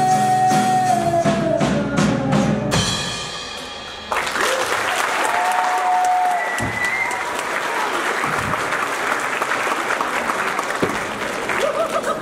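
A live rock band ends a song on a held sung note over drum hits, and the last chord rings out. About four seconds in, the audience breaks into loud applause and cheering with a couple of whoops.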